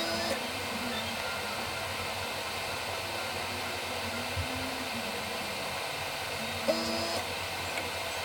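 Steady hiss of compressed air blowing through an airbrush during cleaning after lacquer paint, with a short click about seven seconds in.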